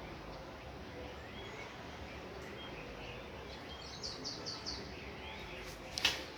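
Birds chirping over a steady low background noise, with a quick run of four chirps about four seconds in. A sharp click near the end.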